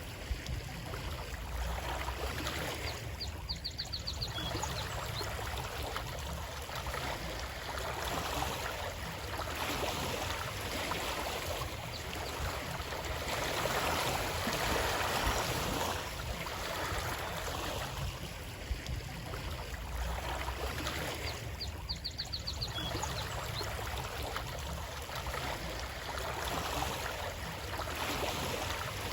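Stream water flowing and trickling steadily, swelling and easing slowly. A short, high trill is heard twice: about 3 seconds in and again about 22 seconds in.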